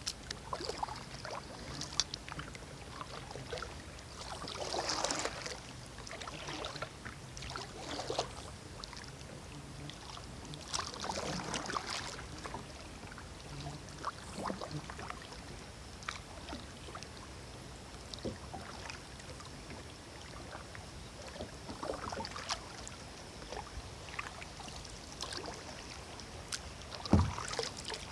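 Kayak paddle strokes dipping and splashing in river water at uneven intervals of a few seconds, with a single low knock near the end.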